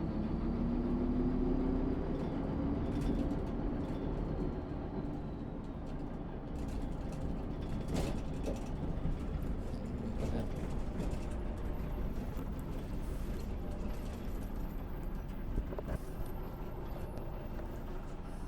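MAN SÜ 272 bus's diesel engine running under way, its pitch rising over the first couple of seconds and then settling into a steady low rumble, with scattered rattles and clicks.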